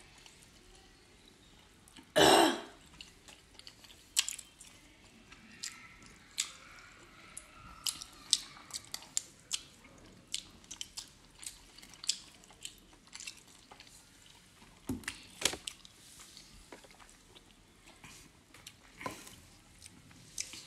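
Close-up chewing and wet mouth sounds of people eating steamed momos, with many short smacking clicks. There is one short, loud burst about two seconds in and two sharper smacks near fifteen seconds.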